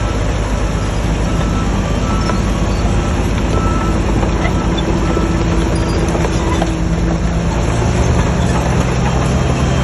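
Heavy diesel earthmoving machinery running steadily, with a reversing alarm beeping about once a second for the first few seconds. The engine note shifts lower near the end.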